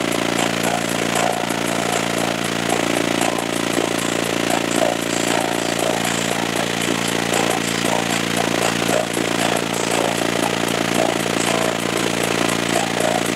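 A car audio system of six 15-inch Crossfire subwoofers holding one long, loud low bass tone, with the car body buzzing and rattling in a fast, even chatter over it.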